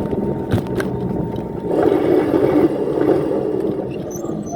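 Dirt bike engine running, growing louder for about a second and a half in the middle.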